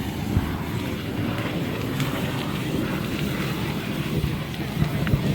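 Low, steady roar of a large house fire burning, with wind buffeting the microphone and a couple of faint sharp pops.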